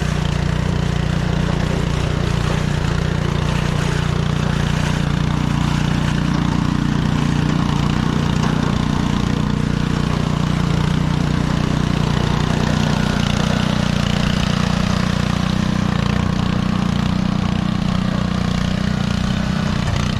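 An engine running steadily at a constant speed, a loud, even low hum with no change in pitch.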